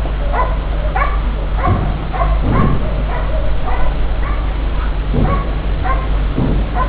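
A dog barking and yipping over and over, roughly two short barks a second, over a steady low hum with a few dull low thuds.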